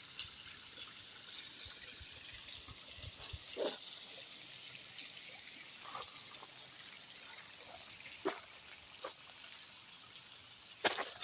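Water from a small stream and waterfall running and trickling steadily, low in flow after little rain. A few short knocks break in here and there, more of them near the end.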